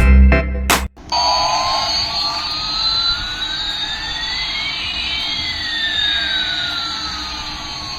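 Music cuts off about a second in. Then a toy's electronic jet-engine sound effect plays: a steady jet hiss with one whistling tone rising and another falling, the two crossing about halfway through.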